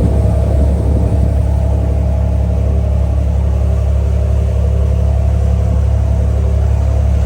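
A small ferry's engine running steadily at cruising speed, a loud, even low drone.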